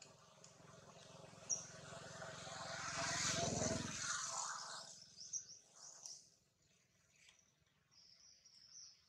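Birds chirping in short high calls through the second half, after a broad rushing noise with a low hum under it swells for about three seconds and fades away.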